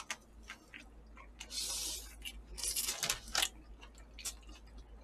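Close-miked chewing of food such as sliced braised pig's trotters: irregular wet mouth clicks and crunches, with a short hiss about a second and a half in and a dense run of crunching near three seconds.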